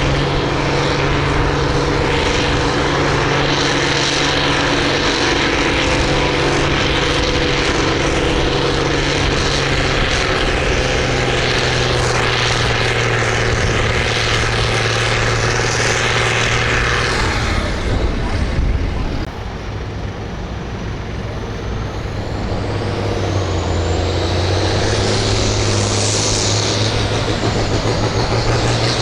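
Farm tractor engine running hard under load while pulling the sled, steady and loud; about nineteen seconds in it drops off, then builds again with a high whine that rises and falls near the end.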